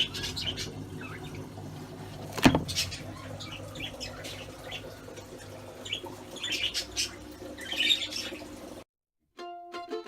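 Budgerigars chirping in short, scattered calls, with one sharp knock about two and a half seconds in. The sound cuts out near the end and plucked-string music begins.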